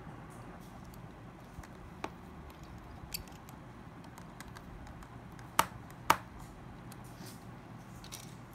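Small sharp clicks and taps of a mobile phone's parts being handled during disassembly or reassembly: two faint ones, then two louder ones about half a second apart past the middle, over a low steady hum.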